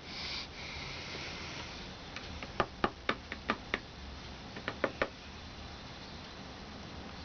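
A string of about ten sharp, irregular taps or knocks, bunched between about two and five seconds in, over a faint steady low hum.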